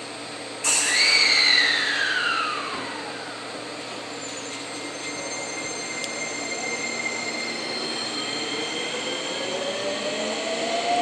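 Electric trains at a station platform. About a second in a sudden loud squeal starts high and falls in pitch over about two seconds. Near the end a train's motor whine rises in pitch as it accelerates away.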